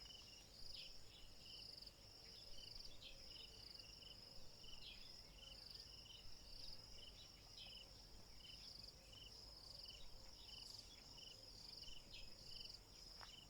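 Faint chorus of insects chirring: a steady high-pitched trill with a second, lower row of short chirps repeating about once a second.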